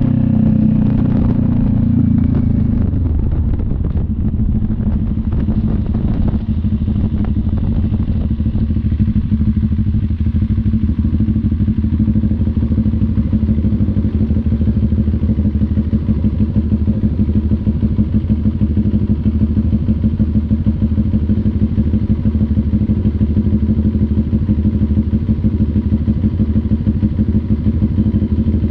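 CF Moto NK400's two-cylinder engine drops in revs about two to three seconds in, then runs steadily at low revs with an even, pulsing beat.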